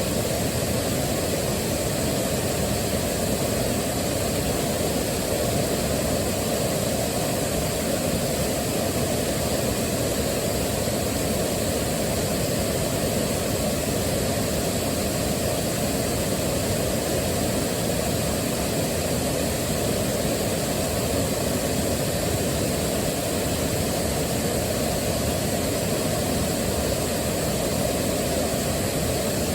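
Waterfall, water rushing and falling in a steady, unbroken roar, heaviest in the low end.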